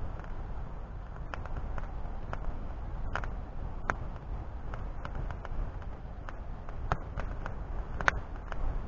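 Wood fire in a hearth crackling, with irregular sharp pops and snaps over a steady low rumble.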